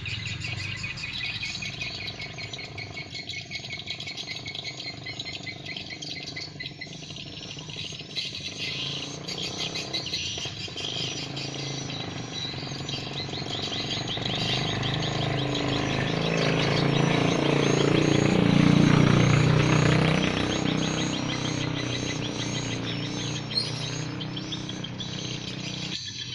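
Many swiftlets twittering, dense rapid high chirps all through. In the middle a low rumble swells up, peaks as the loudest sound, and fades away again.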